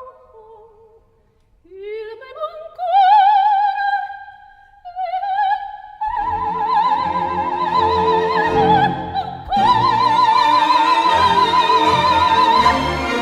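Background music: an operatic soprano sings high, with wide vibrato, sliding up through a phrase on her own. About halfway through an orchestra comes in beneath her while she holds a long high note.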